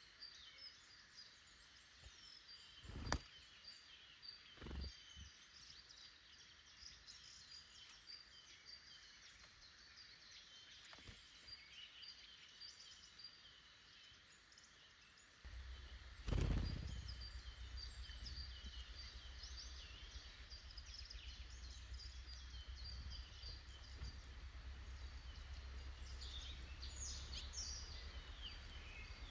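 Small woodland birds chirping and calling, many short overlapping calls. A few soft thumps stand out, and a low rumble sets in about halfway.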